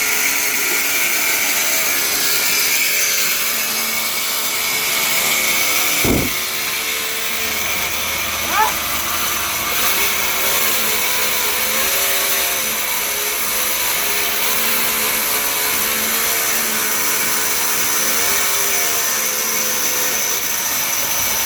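Sawmill machinery running steadily, a saw's drone and whine with a pitch that wavers slowly as it works through a mahogany log. A single sharp knock comes about six seconds in.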